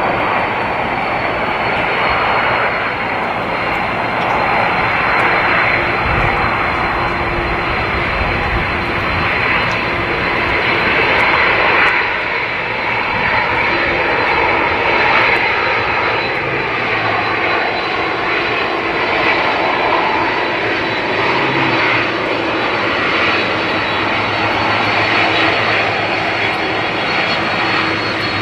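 Airliner engines running loud and steady, with a thin high whine above the roar that drifts slightly lower in pitch.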